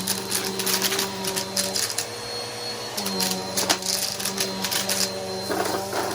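Vacuum cleaner motor running with a steady hum that shifts in pitch a few times, while dirt and grit crackle and rattle as they are sucked up.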